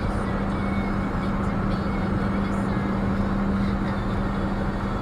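Steady low drone from a 2013 Ford Police Interceptor Utility 3.7 AWD, one held tone over the vehicle's running and road noise, heard inside the cabin; its cause is unknown to the owner. The drone stops near the end.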